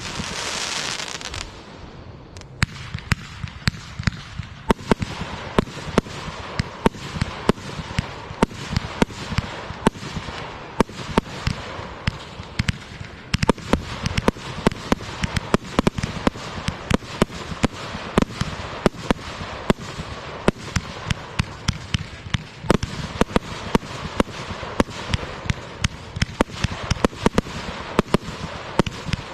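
Fireworks going off in a dense, irregular barrage of sharp bangs and cracks, several a second, after a brief loud hiss in the first second or so.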